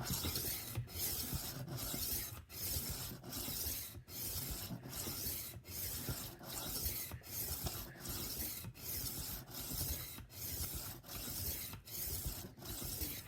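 Rolling knife sharpener's 600-grit abrasive plate rolled back and forth along the steel edge of a 12-inch chef knife: a steady rasping grind in even strokes, a little over one a second.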